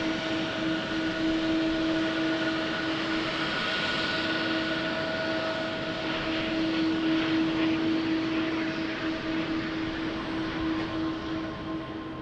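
Jet airliner engines running: a steady rush of noise under a held whining tone, easing off near the end.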